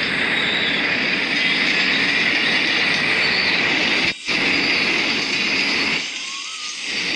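Philippine National Railways train passing close by: a loud, steady rush of wheel and rail noise. It cuts out for a split second about four seconds in and fades down about six seconds in.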